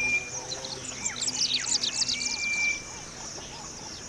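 Wild birds chirping in quick bursts, including two short steady whistled notes, over a steady high insect drone.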